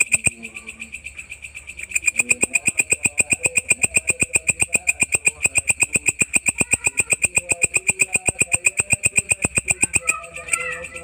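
Walang ecek, an insect kept as a tutor sound for songbirds, stridulating: a rapid, even train of shrill clicking pulses, about eight a second. The pulses are softer for about the first two seconds and then louder.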